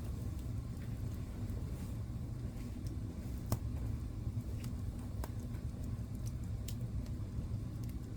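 Fireplace wood fire burning with a steady low rumble and scattered sharp crackles and pops, the loudest about three and a half seconds in.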